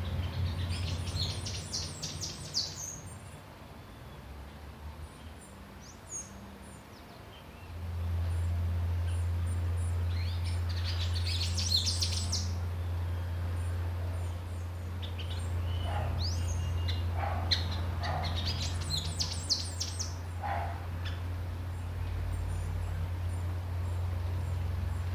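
Small birds chirping in several short bursts of quick high notes, some gliding up or down. A steady low hum runs beneath them, dropping away for a few seconds and returning louder about a third of the way in.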